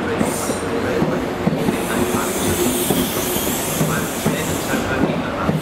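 High Speed Train's Mark 3 coaches rolling past on the platform line: a steady rumble of wheels on rails, with irregular clacks as the wheels cross the rail joints.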